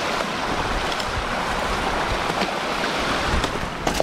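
Steady rush of flowing creek water, with a faint click or two near the end.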